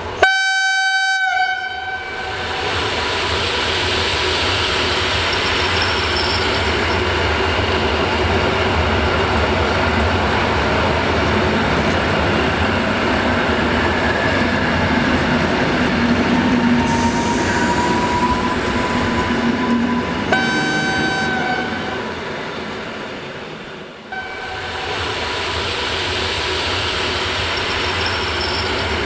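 Electric passenger trains passing through a station. A horn sounds for about a second at the start, then the passing train makes a steady rumble with a rising electric whine. A second, shorter horn blast comes about twenty seconds in, and the noise dips briefly near the end before picking up again.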